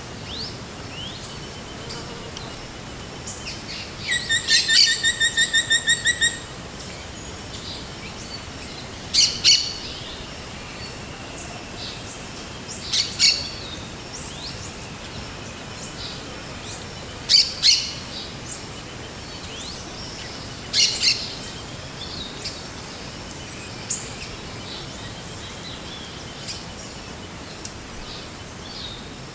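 Forest birds calling. About four seconds in comes a rapid run of about a dozen evenly spaced ringing notes. After it, short, sharp doubled calls come roughly every four seconds, over faint scattered chirps and a steady background hiss.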